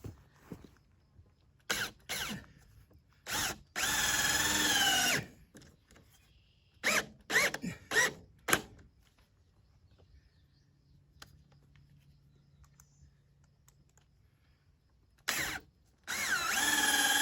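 Power drill running in short trigger bursts and two longer runs of about a second each, its motor pitch rising and falling as it works.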